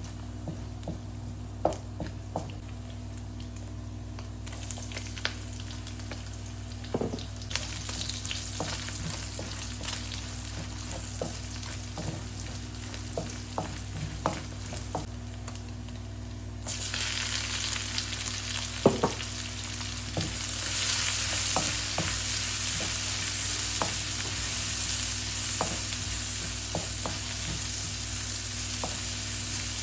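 Food frying in a pan, with a spatula stirring and clicking against the metal. The sizzle jumps much louder about halfway through and grows again a few seconds later, over a steady low hum.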